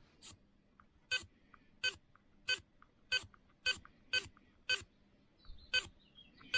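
Freshly rebuilt Reef Raw 500 servo being run after its repair, a short pitched buzz each time it moves, about every half second to second. It sounds smooth, with no binding.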